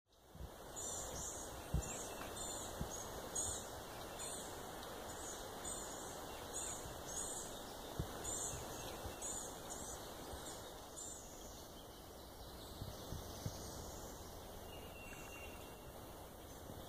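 A songbird repeating short, high chirps about twice a second, stopping about two-thirds of the way through, over a steady rush of breeze through the swamp forest. A few brief low thumps are also heard.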